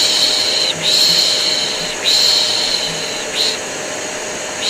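A vacuum cleaner running steadily with a constant motor hum. Over it, a person's repeated 'shhh' shushing, the soothing shush used to calm a baby. The shushes come in rhythmic hisses of about a second each, with a short one and a longer pause near the end.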